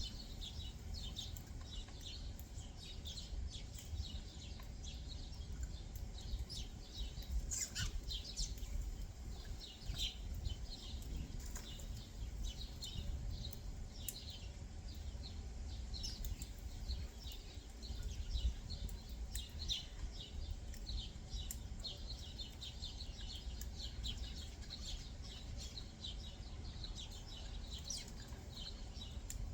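Backyard songbirds chirping: many short, high chirps in quick succession, over a steady low rumble.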